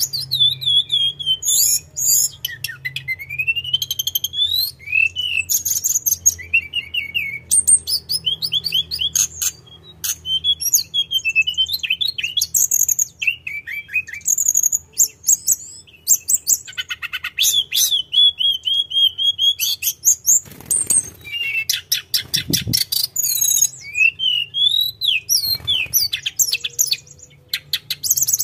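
Tledekan gunung singing a long, continuous song of high whistles, rising slurs, rapid ticking trills and chattering phrases with hardly a pause.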